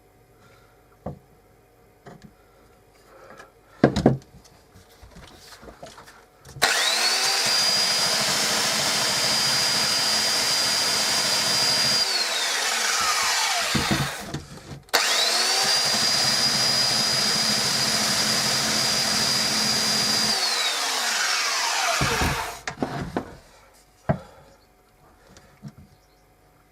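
Electric sander run twice on wood, each run about five seconds of a steady high whine over a rasping grind, the whine falling away as it is switched off and spins down. A few knocks come before the first run.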